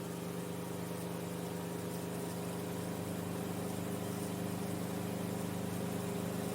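Enstrom F28F helicopter's turbocharged piston engine and rotor running steadily at full RPM, an even low drone with no change in pitch, as the helicopter readies to lift off the skids.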